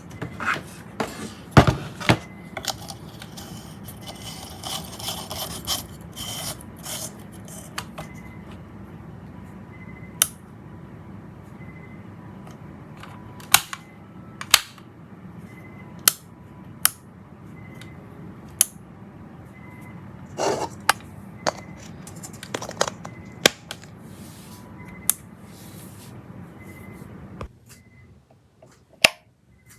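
Scattered sharp clicks and taps of small parts and tools being handled, over a steady low hum that stops near the end.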